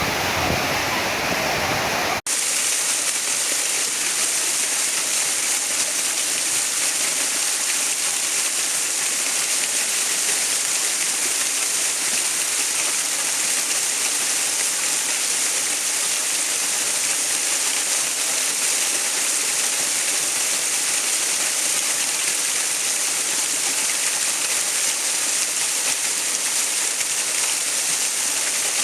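Steady rushing water. About two seconds in it cuts out for an instant and resumes as a brighter, hissier rush with less low rumble.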